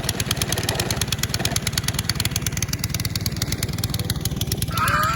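A small engine running steadily, with rapid even pulses; a short voice sounds near the end.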